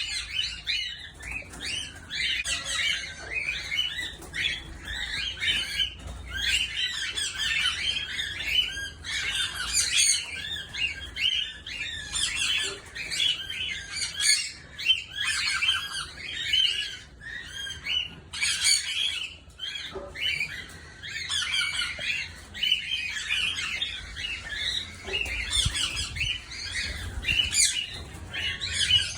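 A colony of cockatiels chirping and squawking together, many short overlapping calls in a constant chatter.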